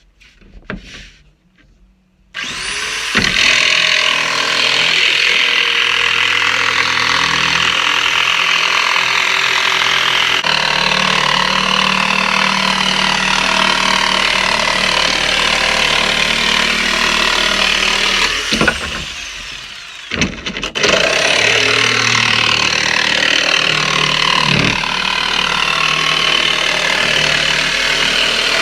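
Jigsaw with a standard wood blade cutting 9mm plywood. It starts about two seconds in and runs steadily. It winds down and stops briefly about two-thirds of the way through, then starts again and cuts on.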